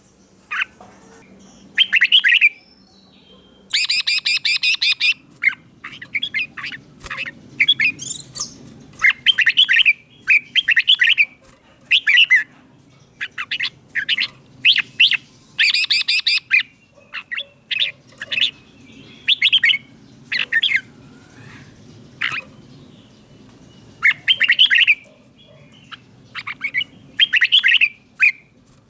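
Red-whiskered bulbul singing short, bubbling whistled phrases, repeated every second or two, with a harsher chattering burst about four seconds in.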